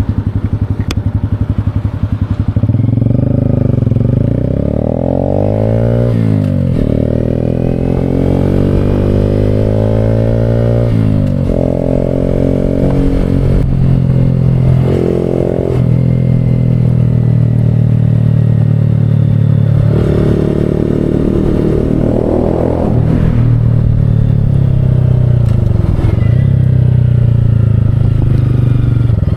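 Motorcycle engine under way, climbing in pitch as it accelerates and dropping at gear changes about six and eleven seconds in, then running through further rises and falls, with wind rush.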